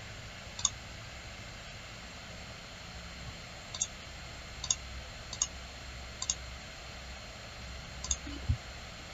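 Computer mouse clicking: about seven sharp single clicks at irregular intervals, a few in quick pairs, with a dull low thump near the end, over a faint steady hum.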